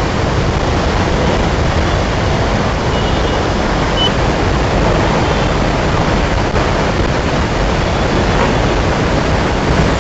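Heavy rain falling, a loud, steady noise that does not let up.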